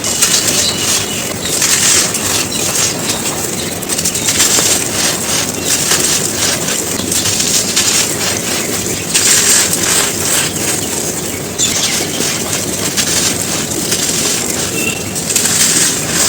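Dry, gritty cones being crushed and crumbled: a dense, continuous crunching and crackling, with louder surges about 2, 4, 9 and 15 seconds in.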